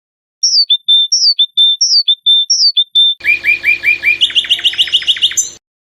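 Songbird singing: four evenly repeated phrases, each a falling whistle followed by a short lower note, then a fast run of repeated notes that quickens and stops abruptly.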